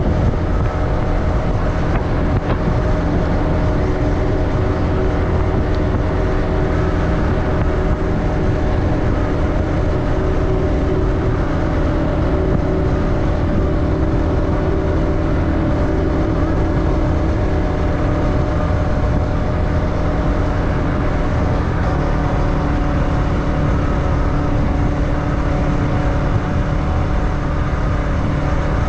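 Motorbike engine running steadily while riding, with road noise; the engine note changes a little over twenty seconds in.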